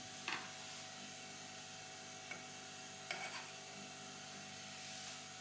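Faint steady hum of bench equipment, with a few light ticks of small tools being handled at the board.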